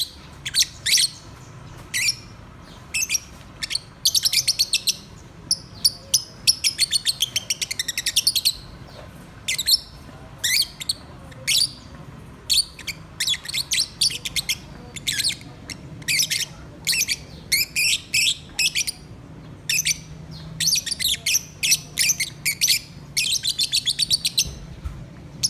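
Pet lovebirds chirping: a busy string of short, sharp, high-pitched chirps, some running together into fast trills.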